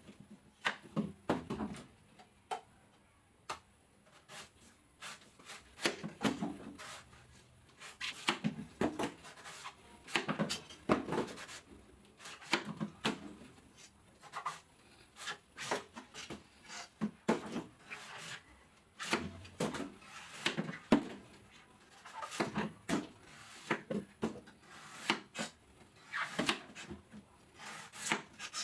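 A blade cutting and scraping the husk of a fresh coconut: a long, irregular series of sharp chops and short scrapes, sometimes several a second, with brief pauses between runs.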